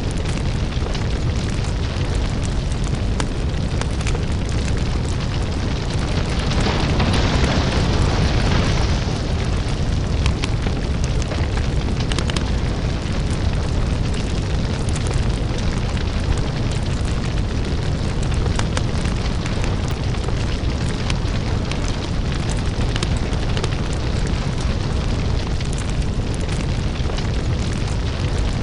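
Crackling lava fire ambience: a steady low rumble under dense, continuous crackling and popping, swelling louder with a hiss for a couple of seconds about seven seconds in.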